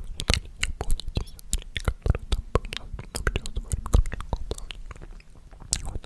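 Close-miked mouth sounds: a fast, irregular run of wet clicks and smacks, mixed with unintelligible whispering.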